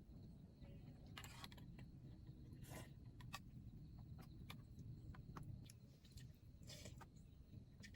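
Faint scattered clicks and three short rustles, about a second in, near three seconds and near seven seconds, over a low steady rumble.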